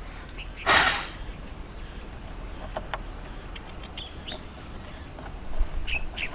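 Crickets chirring steadily at a high pitch, with a short loud rustle about a second in and a few faint clicks from handling while sand is cleaned out of the engine bay.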